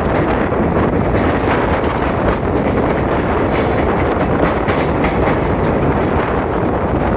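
Passenger train running on the track, a loud steady rumble of wheels on rails, with a couple of short high-pitched screeches near the middle.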